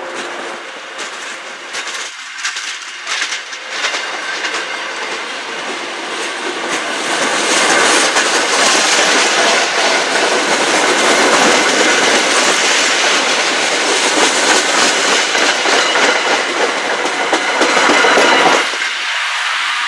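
MBTA commuter rail train of bi-level coaches rolling past, wheels clicking over the rail joints, the noise growing louder from about seven seconds in. Near the end it drops briefly, then a lower engine sound comes in as the diesel locomotive at the end of the train draws level.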